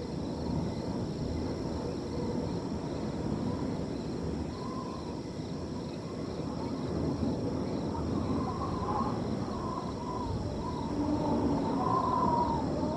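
Wind blowing steadily across an open field, with crickets trilling faintly and continuously. A wavering, hooting tone comes and goes over the wind, strongest near the end.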